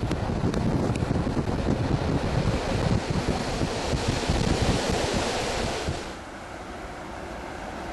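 Wind rushing past an open train window over the rumble of the carriage running on the rails. About six seconds in it cuts to a quieter steady background.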